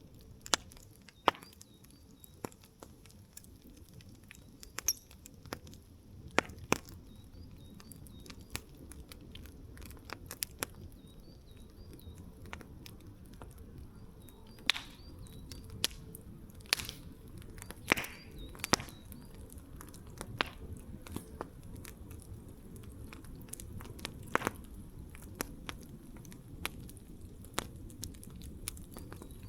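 Wood campfire crackling: irregular sharp pops and snaps of burning wood, some much louder than others, over a low steady rumble of the flames.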